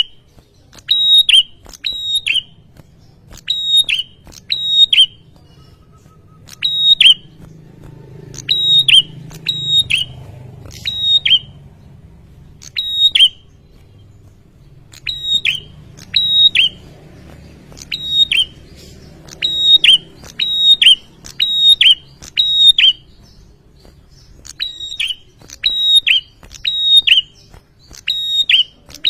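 Prenjak kepala merah, a small prinia-type songbird, calling loudly in rapid runs of sharp, high chirps, each note dropping quickly in pitch, with short pauses between runs. A faint low rumble lies underneath.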